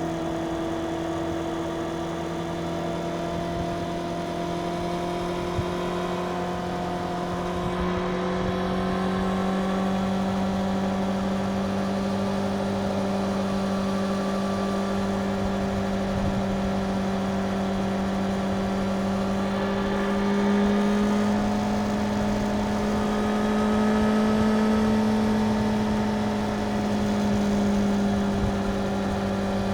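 Suzuki GSX-R750's inline four-cylinder engine with its stock exhaust, running at a steady pitch that rises slowly, with a couple of brief swells in the second half.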